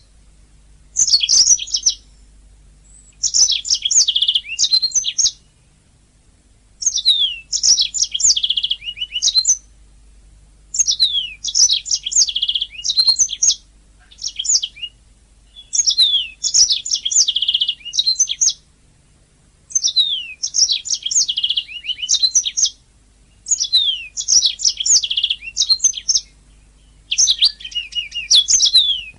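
Domestic canary singing: phrases of two to three seconds made of rapid trills and quick downward-sweeping notes, repeated with short pauses of about a second between them.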